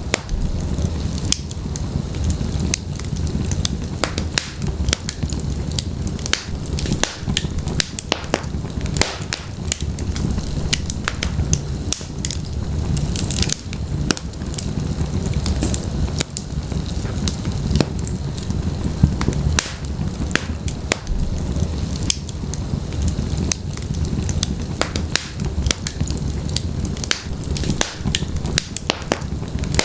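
Wood logs burning in a fireplace: a steady low rumble of flame with frequent, irregular sharp crackles and pops from the wood.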